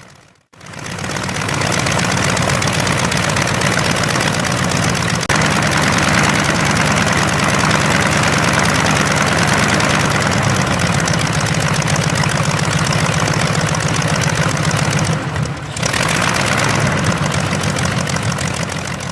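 Continental W670 seven-cylinder air-cooled radial engine running steadily, with a brief drop about fifteen seconds in.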